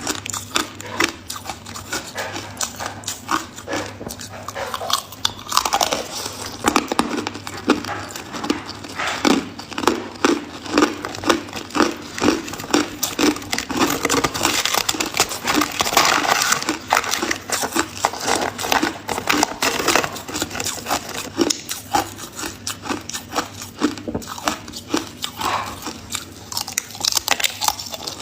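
A person biting and chewing ice, with dense, irregular crunching that keeps on without pause.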